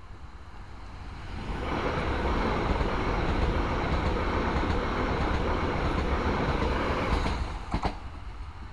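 A Transilien Z 50000 electric multiple unit passing close by at speed. Its rumble and rush of wheels on the rails rise about a second in, hold steady for about six seconds and fall away near the end, with two or three sharp clicks just after.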